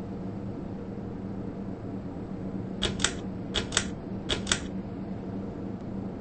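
Super Power Systems Milledgeville 42" ceiling fan running with a steady hum. About halfway through come six sharp clicks in three quick pairs.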